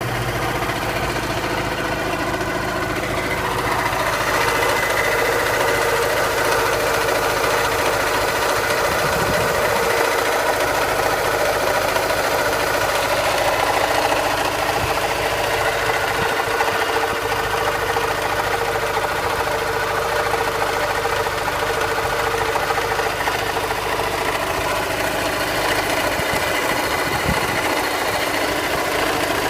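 R53 Mini Cooper S supercharged 1.6-litre four-cylinder engine running steadily, with steady tones over the engine noise that grow a little stronger about four seconds in. The supercharger is making an odd noise that the owner considers abnormal.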